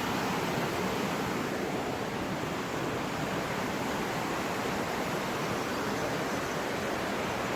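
Fast-flowing water rushing steadily, an even, unbroken noise.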